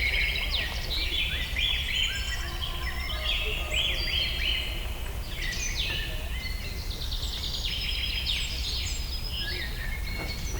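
Chorus of many small birds chirping and singing over one another, with quick trills and sweeping notes, over a steady low rumble.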